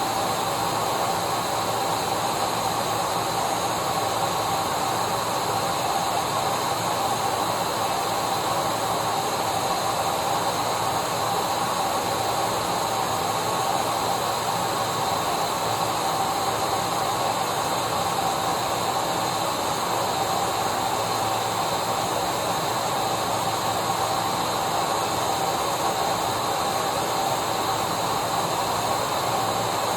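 Vacuum cleaner running steadily: an even rushing hiss of air with a constant motor whine, no change in speed.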